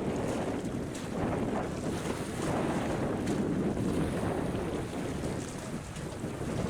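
Wind buffeting the microphone in gusts: a rushing, rumbling noise with no distinct tones.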